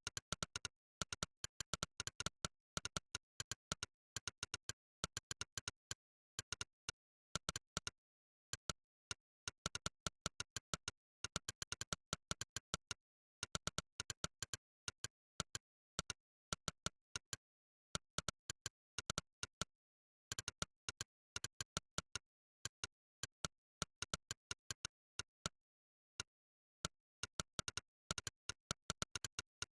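Monkeytype's synthesized 'click' keystroke sound, one sharp click per keypress, in quick runs of clicks broken by short pauses as typing goes on.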